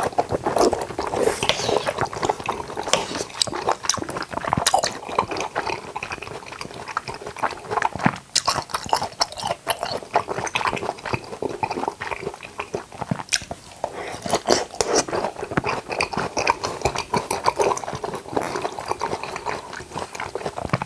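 Close-miked wet chewing and biting of jackfruit, a steady run of sharp mouth clicks and sticky smacks.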